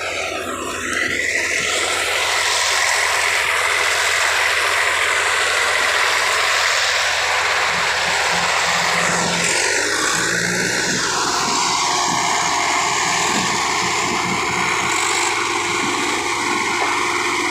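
Swaraj 855 tractor's diesel engine running loud and steady under heavy load while pulling a stuck trolley.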